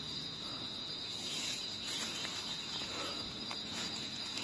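Steady high-pitched chorus of insects, an unbroken chirring with no pauses.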